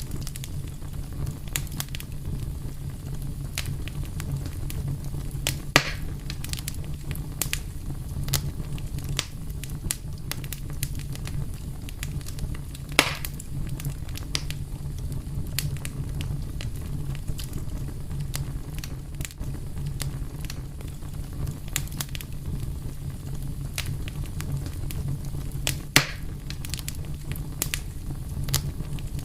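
Wood fire crackling: a steady low rumble of flames with frequent small snaps and pops, and a few louder pops about 6, 13 and 26 seconds in.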